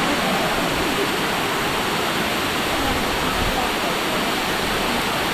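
Waterfall pouring down, a steady, dense rush of falling water.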